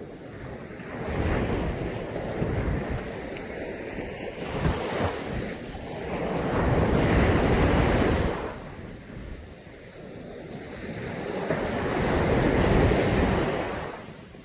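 Caribbean Sea waves breaking and washing up on a sandy beach, three surges a few seconds apart, each swelling and then falling away.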